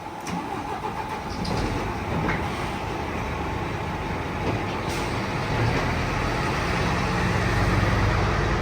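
Helsinki metro train running, a steady rumble and hum that grows a little louder near the end.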